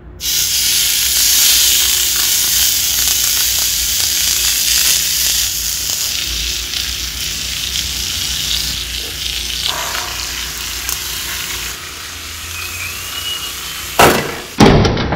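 Raw chicken drumstick sizzling in oil on the hot plate of an electric waffle maker, a steady hiss that starts the moment it is laid down. Near the end the waffle maker's lid is shut with two loud clunks.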